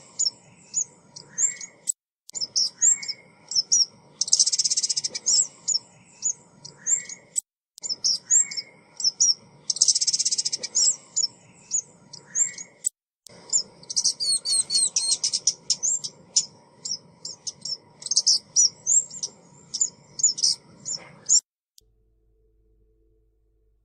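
Decoy recording of a small songbird's calls, sold as a female ốc mít lure: rapid high, thin chirps and short buzzy trills repeating in bursts every few seconds. It cuts off abruptly a couple of seconds before the end, leaving near silence.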